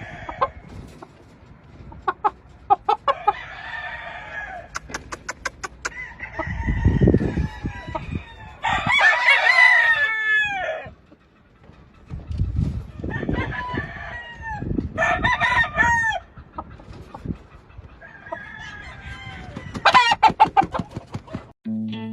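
Gamefowl roosters crowing several times, with clucking and low rumbles in between.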